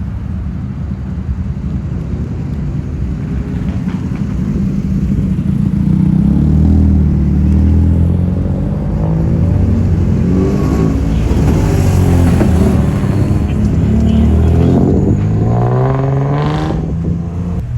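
Car engines running and revving, their pitch rising and falling over a low rumble, loudest through the middle. Near the end one engine revs up sharply.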